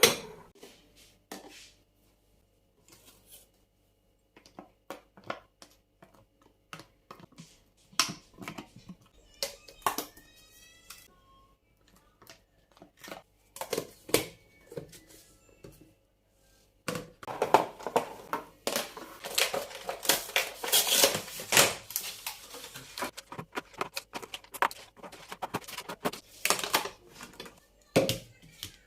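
Kitchen handling sounds: scattered clicks and knocks of containers and items being set down, with a short squeak about ten seconds in. A longer stretch of plastic crinkling and rustling follows past the middle.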